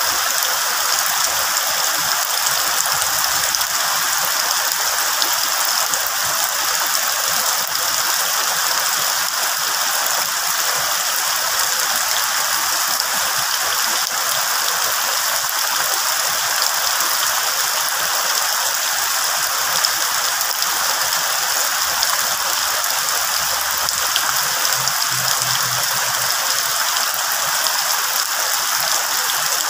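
Steady rain falling on the leaves of trees, an even hiss of rainfall.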